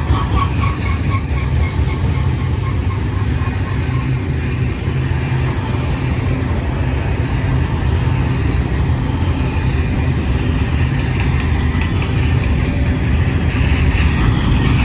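Double-stack intermodal container freight trains rolling past close by, a steady low rumble of steel wheels on rail. For the first couple of seconds a faint quick rhythmic clicking rides over the rumble.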